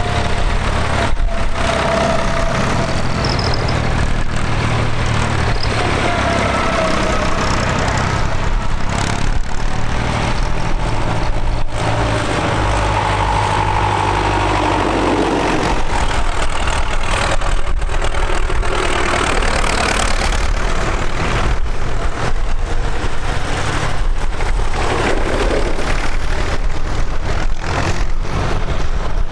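Tractor engines running steadily, a continuous low engine note with some tones that rise and fall.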